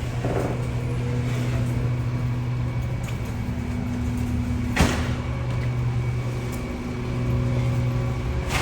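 A steady low mechanical hum, with one sharp knock about five seconds in.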